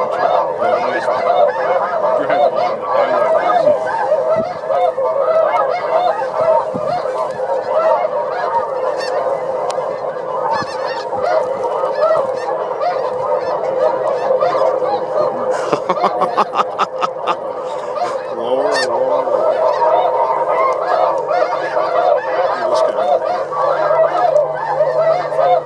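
A huge flock of snow geese calling all at once, a dense, unbroken chorus of high honks. A quick run of clicks comes about two-thirds of the way through, and a low steady hum joins near the end.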